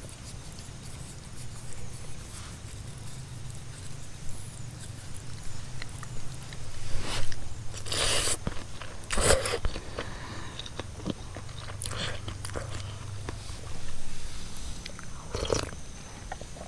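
A few sharp crunching, rustling noises, the loudest about eight seconds in, over a steady low hum.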